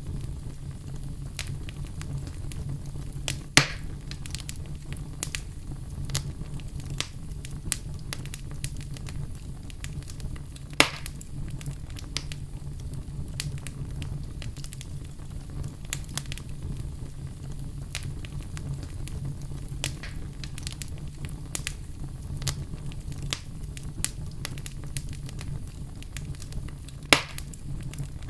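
Wood fire burning in a fireplace: a steady low rumble with constant crackling, and three louder pops, at about four seconds, eleven seconds and near the end.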